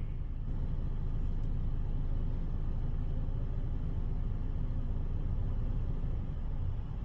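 Steady low rumble of a busy car wash in operation, with vehicles running nearby.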